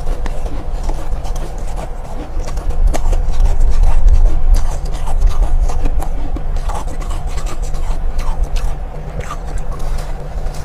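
Soft, powdery ice being chewed and crunched close to the microphone: a steady rasping crunch with scattered sharp clicks over a low rumble.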